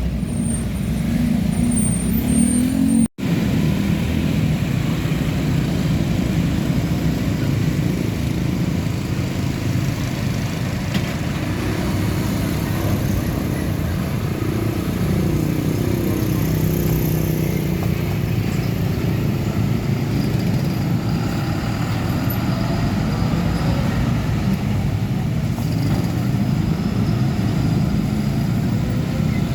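Road traffic: heavy vehicles passing with their diesel engines running, the engine pitch gliding as a vehicle goes by near the middle. There is a brief dropout in the sound about three seconds in.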